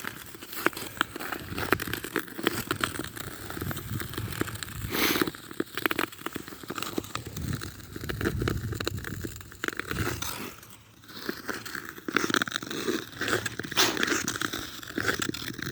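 Crunching and crackling footsteps on snow-covered lake ice, with rustling of winter clothing, a run of irregular short crunches.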